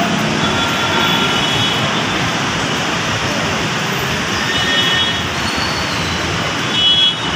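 Pouring rain mixed with busy road traffic, a steady even wash of noise, with brief high squeals, like brakes or wheels, about five seconds in and again near the end.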